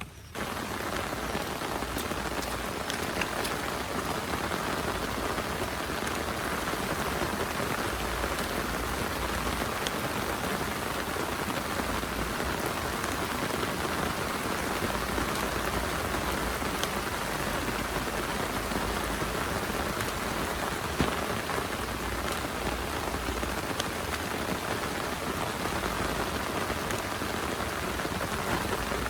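Heavy rain falling steadily, a dense hiss with individual drops ticking now and then.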